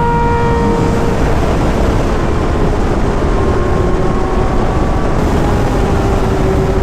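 Sportbike riding at highway speed: heavy wind rush on the microphone, with the engine's tone underneath gradually falling in pitch as the bike eases off.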